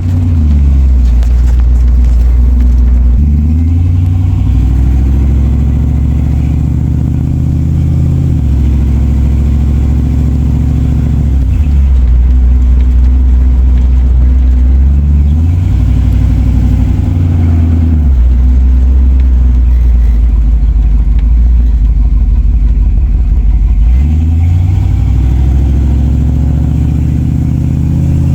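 Car engine running while driving, its low drone shifting up and down in pitch several times as the car speeds up, changes gear and slows.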